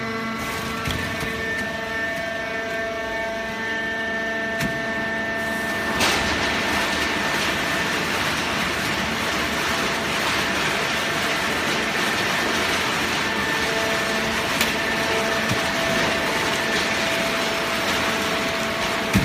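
Full-automatic plastic bottle baler running: a steady machine hum with several held tones, joined about six seconds in by a steady rushing noise with faint crackling.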